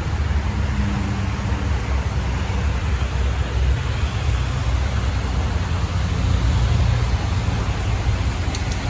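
Steady low rumble and hiss of a vehicle on the move: engine and road noise.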